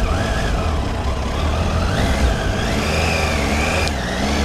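Triumph Tiger 800 XCa's three-cylinder engine running with a steady low rumble, its pitch wavering up and down as the bike pulls away from a standstill.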